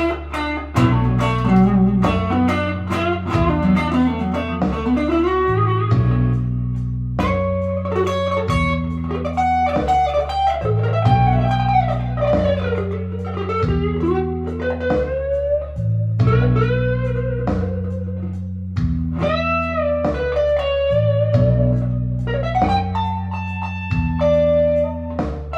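Firefly FFST electric guitar played on a clean tone, picking single-note lead lines with string bends and vibrato over a repeating low bass line.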